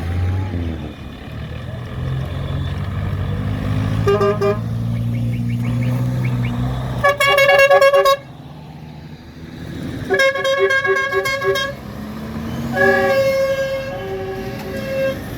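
Vehicle horns tooting over running engines. The horns come in strings of rapid beeps: a short toot about four seconds in, the loudest string about seven seconds in lasting about a second, another string around ten seconds, and shorter toots near the end.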